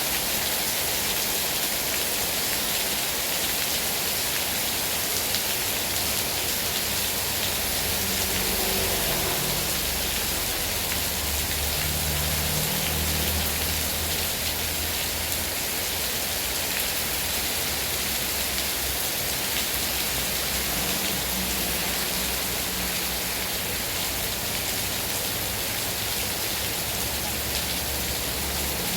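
Heavy rain falling steadily, a constant hiss of drops on surfaces.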